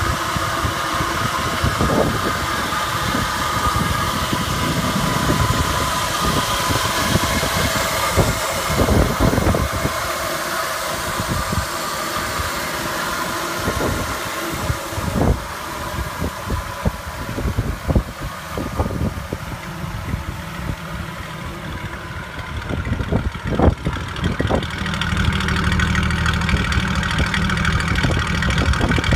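Jeep engine idling steadily, with occasional sharp clicks. In the last few seconds the exhaust note comes through louder and lower.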